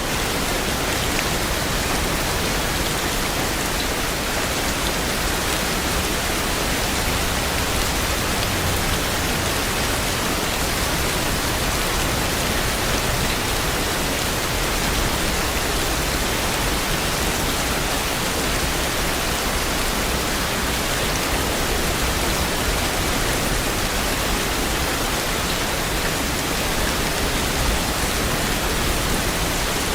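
Steady heavy rain, an even, dense hiss of falling rain with no thunder and no single drops standing out.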